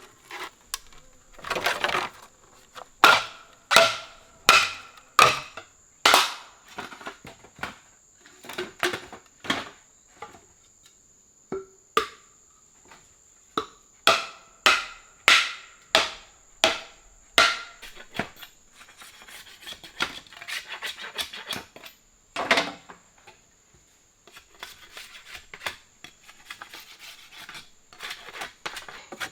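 Sharp blows of a tool on wood, struck in a steady run about every three quarters of a second. The blows give way to a few seconds of scraping, then one heavy blow and lighter scattered knocks, over a steady high insect drone.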